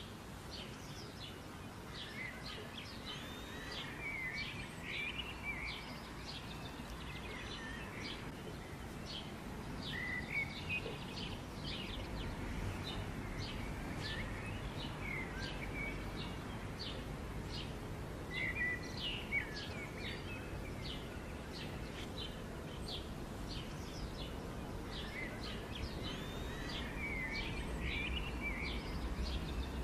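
Small birds chirping over and over, several short high chirps a second with now and then a warbled, twittering phrase, over a steady low background rumble.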